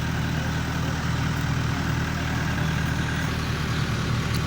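A large engine idles steadily with an even, low hum.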